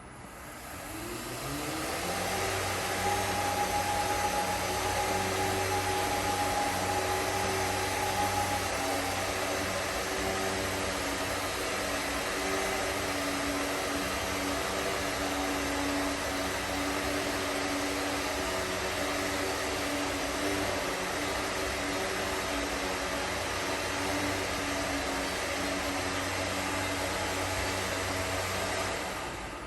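Stone-cutting saw machine spinning up over the first couple of seconds with a rising whine, then running steadily with a dense hiss and several steady hum tones; a higher tone drops out about a third of the way through. The noise falls away just before the end.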